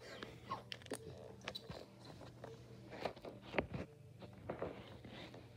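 Scattered light taps, clicks and scrapes of small toy animal figures being moved and knocked together by hand, over a faint low hum.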